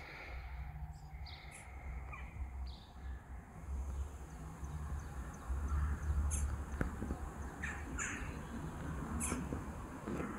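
Birds calling outdoors: a few short, separate chirps and calls scattered through, over a steady low rumble.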